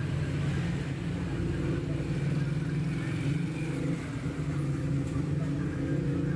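A vehicle engine running steadily, a continuous low hum.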